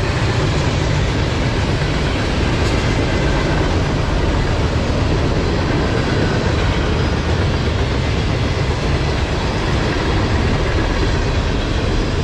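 Freight train of covered hoppers, gondolas and tank cars rolling past: a steady rumble of steel wheels on the rails.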